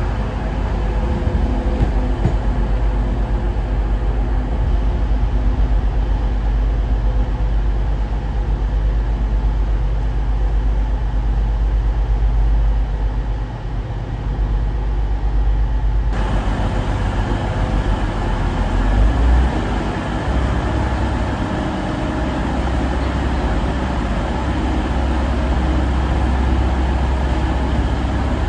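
Diesel train engine running steadily, a low rumble with a faint steady hum over it; the sound shifts abruptly about 16 seconds in.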